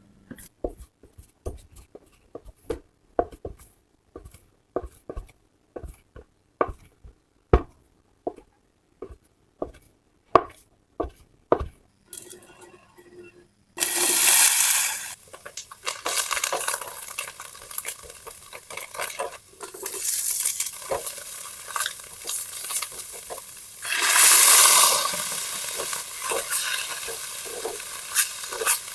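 A series of light clicks and knocks, like utensils tapping, then food sizzling in hot oil: the sizzle starts suddenly about halfway through and swells again near the end, as more food goes into the pan.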